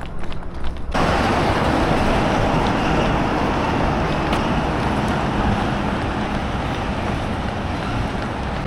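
Steady engine rumble with wind and traffic-like noise, starting abruptly about a second in after a few running footsteps.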